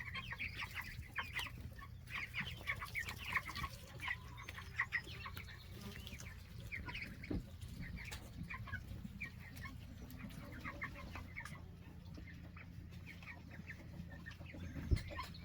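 A flock of young poultry, four-week-old meat chickens and Muscovy ducklings, peeping and cheeping softly: many short high chirps, thicker in the first few seconds, over a faint low hum.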